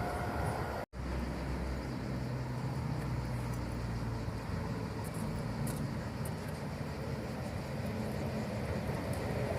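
Steady low rumble of a train at a station, with a momentary drop to silence about a second in.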